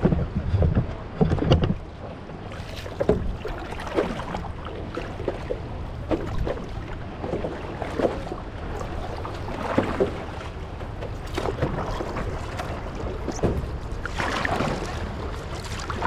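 Paddles splashing and water lapping around a small paddled boat, in uneven strokes, with a few louder knocks in the first couple of seconds. Wind rumbles on the microphone throughout.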